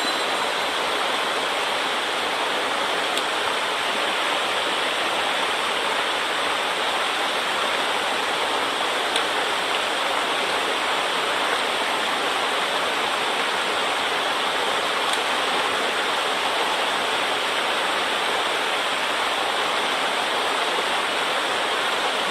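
Mountain stream swollen after a typhoon, its water rushing steadily.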